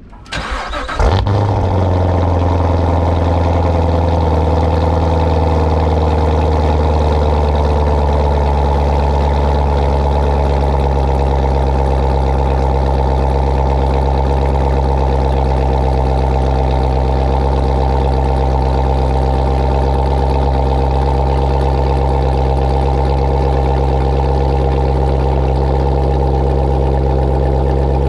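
2019 Corvette Z06's supercharged 6.2-litre V8 cranked by the starter, catching about a second in with a loud flare, then settling into a steady, loud fast idle, its pitch easing down slightly over the first several seconds. This is the car's start-up flare and high idle before it warms, measured at about 105 decibels.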